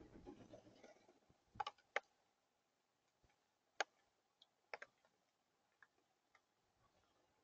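Near silence broken by a handful of short, sharp clicks or taps at irregular spacing: a pair about one and a half to two seconds in, a single loud one near four seconds, another pair just before five seconds, then fainter ones.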